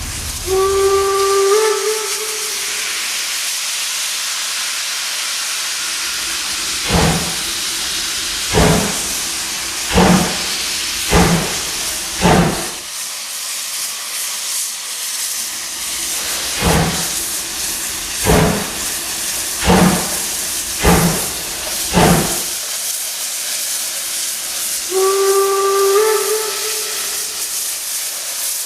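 Steam locomotive blowing a short whistle blast over a steady hiss of escaping steam. It then gives two runs of five slow exhaust chuffs, each run getting a little quicker, and ends with another short whistle near the end.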